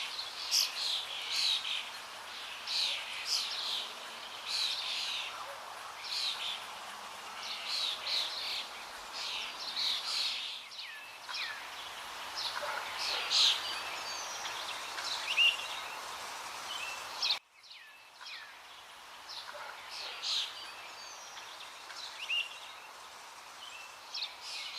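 Birds chirping outdoors: many short high calls over light background noise, busiest in the first half. The sound cuts abruptly about two-thirds of the way through and continues quieter, with fewer calls.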